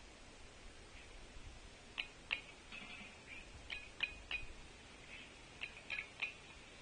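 Sharp taps in small groups of two or three, from a Pileated Woodpecker pecking at a bark butter suet feeder, with faint bird chirps between them.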